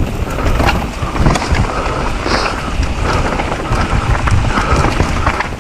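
Mountain bike ridden fast down a dirt trail: wind buffeting the microphone over the tyres rolling on dirt, with frequent short knocks and rattles as the bike goes over bumps.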